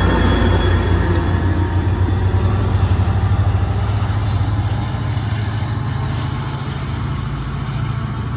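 Diesel locomotive of a departing NJ Transit push-pull train (EMD GP40 4204) with its engine drone and the train's rolling noise, slowly fading as the train moves away.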